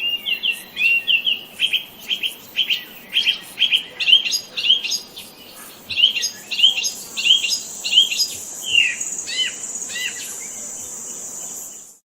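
Songbird chirping in a quick series of short notes, several a second, falling off near the end. A steady high-pitched tone joins about halfway through and runs until the sound cuts off abruptly.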